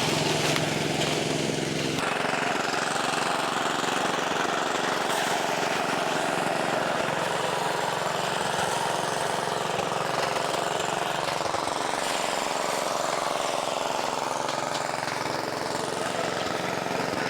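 Engine-driven rice threshing machine running steadily, a small engine's note under a dense mechanical clatter.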